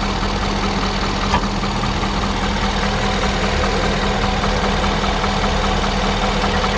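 Ford 6.7 L Power Stroke V8 diesel idling steadily with the oil filler cap off, a check for crankcase blow-by that turns up none. A single short click about a second and a half in.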